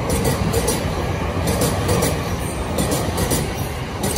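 Electric commuter train (JR Chūō–Sōbu Line local) running past the platform, its wheels clacking over rail joints several times a second over a heavy, steady rumble.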